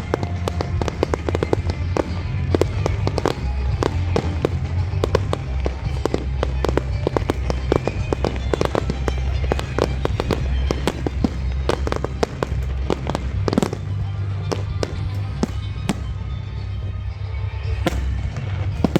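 Fireworks display: rapid, dense bangs and crackling from bursting shells, with music playing underneath.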